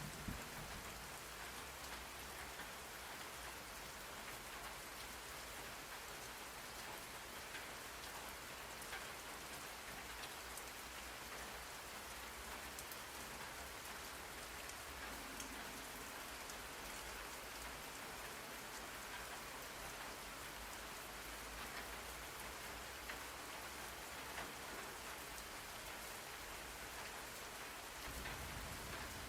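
Steady rain falling on a surface, an even hiss with faint scattered drop ticks, used as white noise. A low rumble fades out just after the start and comes back near the end.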